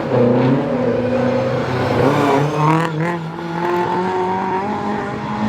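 Rally car engine running, its pitch falling and then climbing steadily as the car changes speed.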